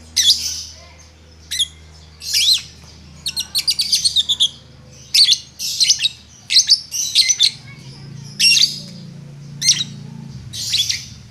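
Lovebird giving sharp, high-pitched chirps, some singly and some in quick runs of short notes: the rapid 'ngetik' (typing) call of a fighter lovebird.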